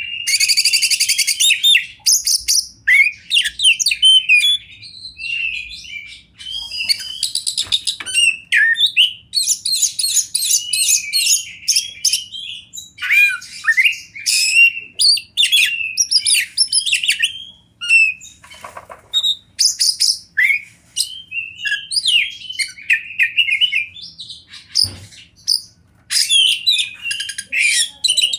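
Oriental magpie-robin (kacer) singing loudly and continuously, a varied song of clear whistled notes, rapid buzzy trills and chattering phrases, with short pauses between phrases.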